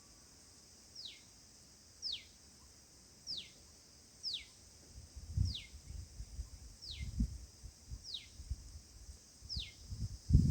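A bird repeating one short high call that slides steeply downward, about once a second, over a steady high hiss. Low rustling knocks join in the second half.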